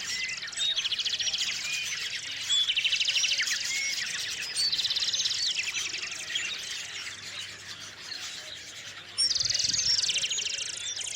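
Small songbirds singing: a rapid trill repeated several times, about every two seconds, with short chirps between.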